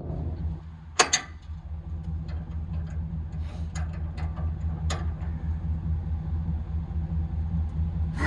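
Pickup truck engine idling steadily, with a few sharp metallic clicks and clanks about a second in and again between about four and five seconds.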